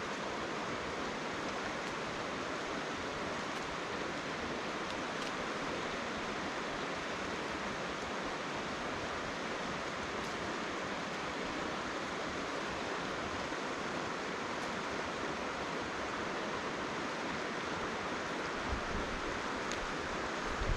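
Mountain river rushing over boulders: a steady, even rush of flowing water. A few low thumps come near the end.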